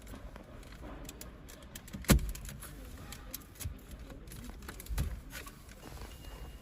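Plastic clicks and taps as an air vent is pried out of an Audi dashboard, with a sharp knock about two seconds in and another near five seconds.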